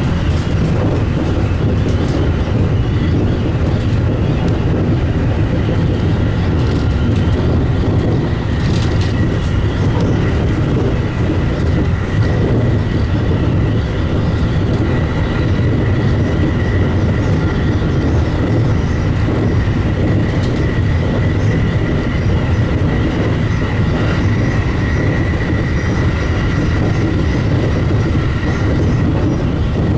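Commuter electric train running at speed, heard from inside the car: a steady rumble of wheels on the rails with a thin, high, steady whine that grows stronger in the second half, and a few faint clacks.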